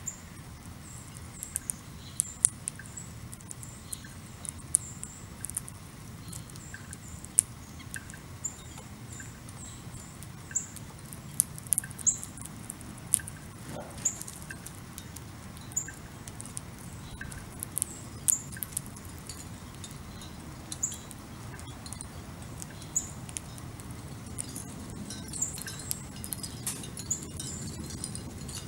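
Backyard bird-feeder ambience: short high chirps from small birds and many sharp ticks and taps scattered irregularly, over a steady low outdoor rumble.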